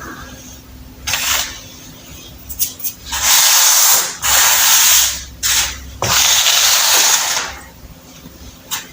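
Crunchy baking soda being crushed: a short crunch, a few quick crackles, then three long, loud bursts of gritty crunching in the middle, fading to light crackles near the end.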